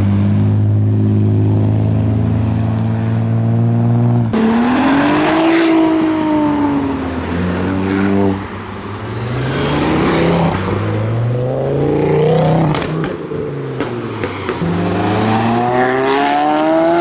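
Car engines at a car meet as modified cars pull in. A steady low engine note holds for about four seconds, then engines rev up and down and pass one after another, and near the end an engine accelerates with a rising pitch.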